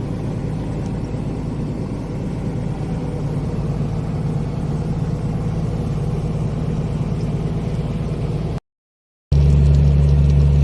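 Heavy truck's diesel engine running steadily, heard from inside the cab while driving. After a short gap about eight and a half seconds in, the engine drone is louder and deeper.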